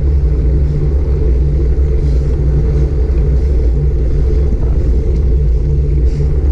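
Loud, steady wind rumble on an action camera's microphone while riding a bicycle.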